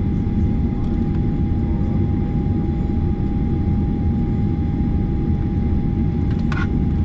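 Cabin noise inside a Boeing 737-900ER taxiing: a steady low rumble with one steady mid-pitched tone over it. A couple of brief sharp sounds come near the end.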